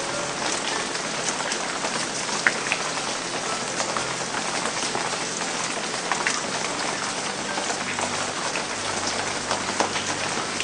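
Heavy rain falling steadily, with many sharp drop hits scattered through it.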